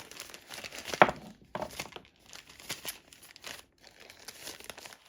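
Plastic packaging of a diamond-painting toolkit crinkling in irregular bursts as it is handled, with one sharp, loud crackle about a second in.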